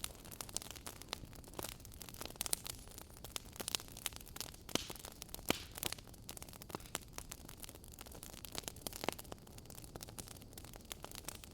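Fireplace crackling: irregular snaps and pops over a soft steady hiss.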